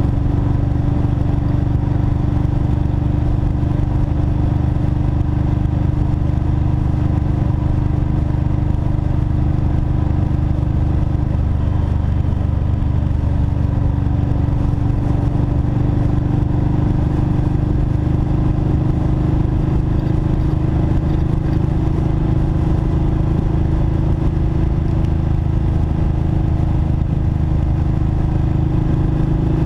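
2007 Kawasaki Vulcan Mean Streak SE's V-twin engine running steadily under way, heard from the handlebars over the rush of wind and road noise. Its pitch sags slightly midway and climbs again near the end as the bike speeds up onto the freeway.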